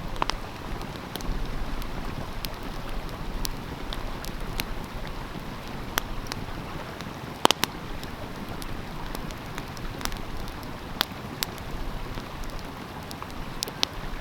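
Wood fire crackling, with sharp pops scattered over a steady rush of stream water; the loudest is a double pop about halfway through.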